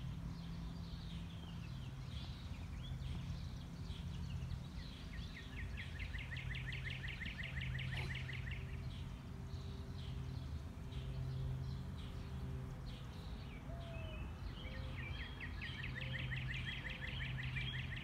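Several songbirds chirping and singing, with a long rapid trill lasting about three seconds starting about five seconds in and another trill near the end. Beneath them runs a steady low background hum.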